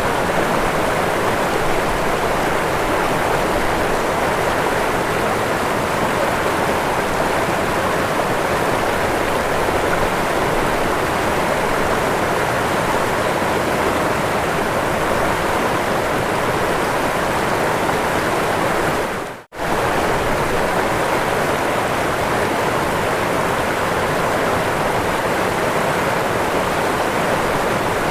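Waterfall rushing in a steady, even roar of falling water. It cuts out for a split second about two-thirds of the way through, then carries on unchanged.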